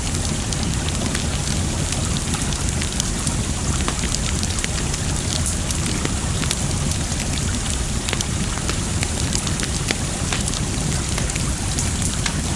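Wood fire crackling, with frequent sharp pops and snaps, over a steady rush of water.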